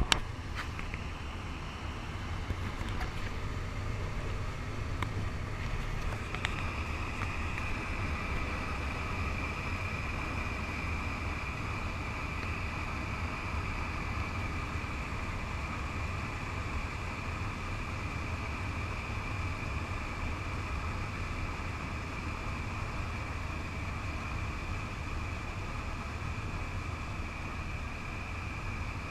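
Cessna 208B Caravan's PT6A turboprop engine and propeller droning steadily in the cockpit during a steep descent, with a constant high turbine whine that grows stronger a few seconds in and a steady rush of airflow. A sharp click right at the start.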